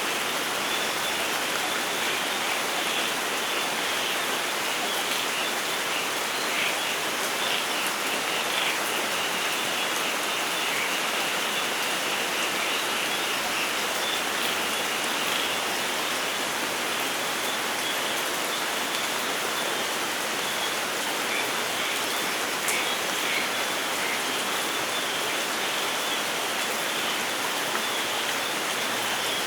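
Rain falling steadily in a forest: an even hiss with the scattered patter of individual drops.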